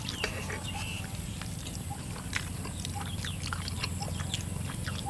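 Two people chewing and smacking their lips as they eat rice and stir-fried eel: scattered short wet clicks and smacks over a steady low hum.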